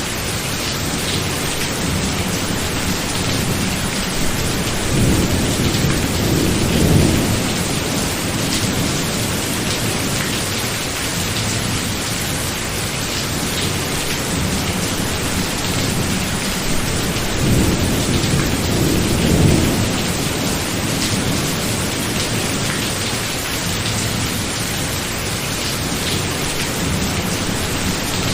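Heavy rain hissing steadily, with distant thunder rumbling twice: once about five seconds in and again past the middle, each rumble swelling and fading over a few seconds.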